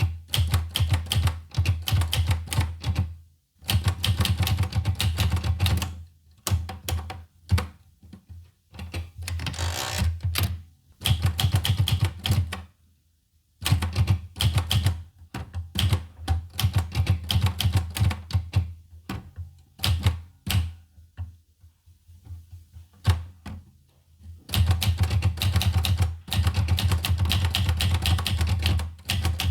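Olivetti Lettera 25 manual portable typewriter being typed on: runs of rapid key strikes in bursts, broken by short pauses and a longer lull a little past the middle.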